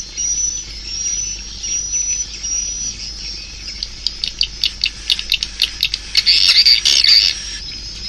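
Swiftlet calls, the recorded lure sound played to draw swiftlets into a nesting house: repeated high chirps, then a fast run of sharp clicks from about halfway, ending in a louder harsh, buzzy chatter near the end.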